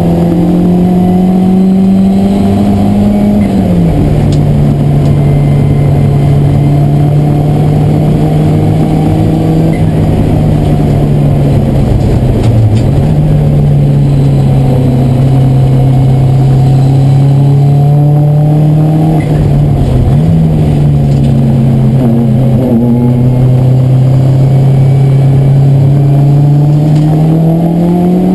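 Race car engine heard from inside the cabin, loud, under hard load through the gears. Its pitch climbs slowly, drops sharply at an upshift a few seconds in, and twice dips briefly midway as the throttle comes off and goes back on.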